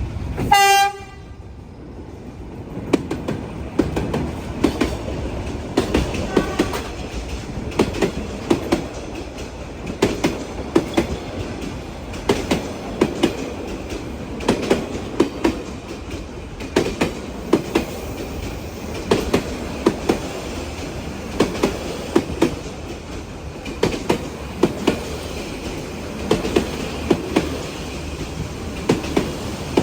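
A train sounds one short horn blast about half a second in. Then its wheels clack over the rail joints in a steady rhythm of paired knocks as the carriages roll past.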